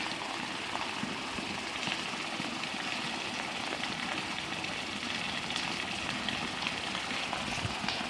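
Heavy rain falling steadily, with scattered small ticks of drops or hailstones striking.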